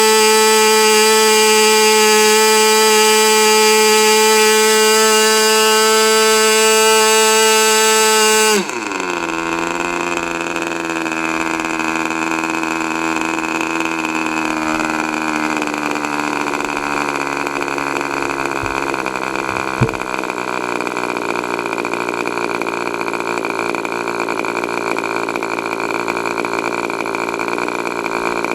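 K&B .40 two-stroke glow engine running steadily at high revs with a high-pitched whine. About eight and a half seconds in it drops abruptly to idle, the note sagging slowly lower over the next ten seconds before holding steady. There is one sharp click around twenty seconds in.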